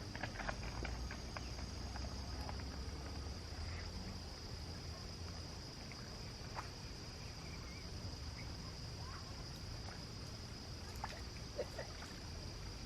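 Steady high-pitched insect chorus, like crickets trilling, over a low rumble, with scattered small clicks.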